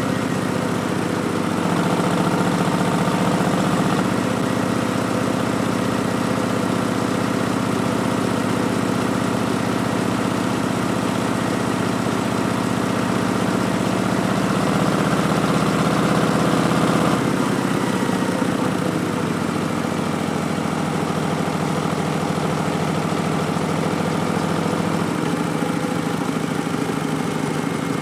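Harley-Davidson Street Bob's V-twin engine running through a Vance & Hines Twin Slash slip-on exhaust, with a steady, even note. The note shifts lower about two-thirds of the way through.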